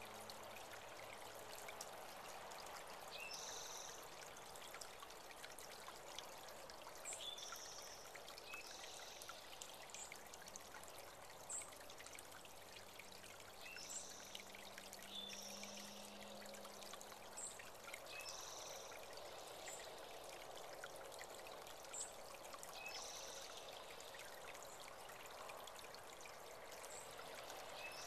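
Water of a small spring-fed creek trickling and pouring steadily, with short high bird chirps repeating every second or two.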